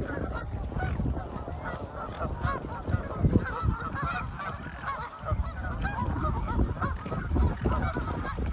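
A large flock of mute swans calling together: many short calls overlapping in a continuous chorus over a low rumble.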